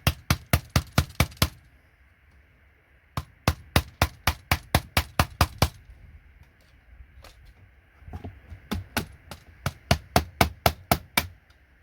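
Hammer rapidly tapping a chisel, driving it under a connector's pins to lift them off a circuit board, in three runs of sharp strikes, about four or five a second, with short pauses between.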